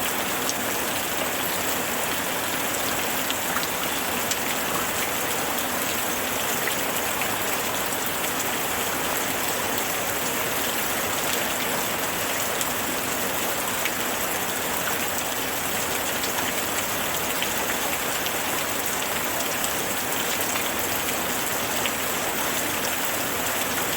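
Steady rain falling, an even hiss of drops with scattered individual drop ticks.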